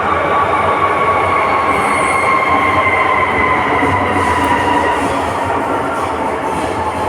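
Hong Kong MTR metro train running: a steady loud rumble of the train in motion, with a whine that slowly falls in pitch.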